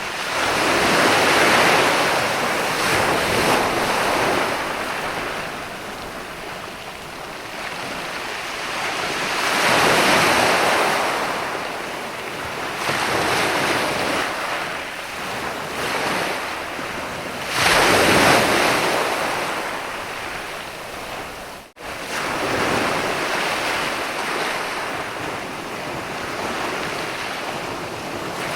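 Ocean waves breaking and washing up a sandy beach: a steady wash of surf that swells and ebbs, with larger waves surging every several seconds. About three-quarters of the way in there is a very short drop-out.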